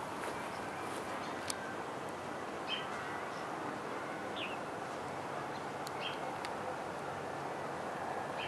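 A small bird giving about four short, high chirps, a second and a half to two seconds apart, some falling in pitch, over a steady outdoor background hiss.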